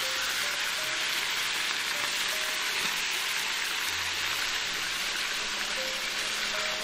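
Marinated chicken drumsticks sizzling steadily as they fry in a hot wok.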